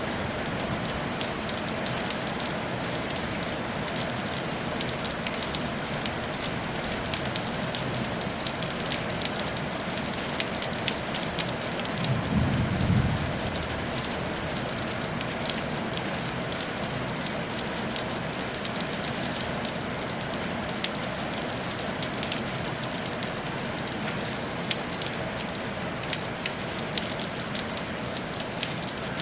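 Steady rain falling on a tile roof, an even hiss full of small drop ticks. About twelve seconds in, a brief low rumble rises over it for a second or so.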